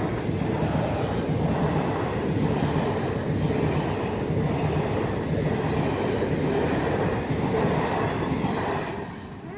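Train passing on the track: a steady, loud rolling noise of wheels and carriages on the rails, which dies down near the end.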